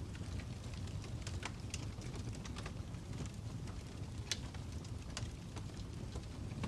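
Fire crackling: a steady low rumble of burning with sharp pops and snaps scattered irregularly, one louder snap about four seconds in.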